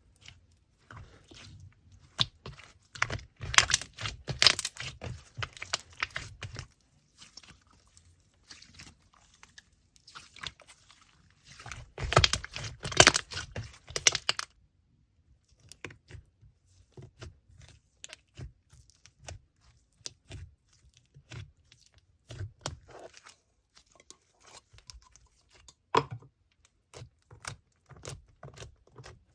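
Slime being worked by hand, making trains of small crackling clicks and pops. They come thick and loud twice, a few seconds in and again around the middle, and are sparser and softer in between.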